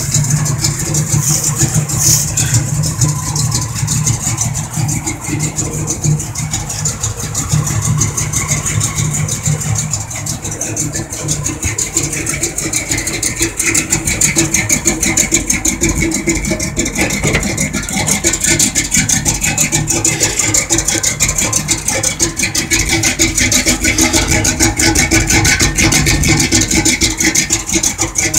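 1984 Chevrolet Monte Carlo SS's V8 engine idling, loud and steady.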